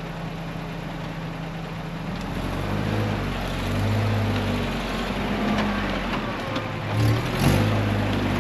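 Off-road 4x4's engine running steadily, then revving up and down in repeated surges from about two seconds in as it tries to climb a muddy hill over roots and stumps, with the loudest push near the end.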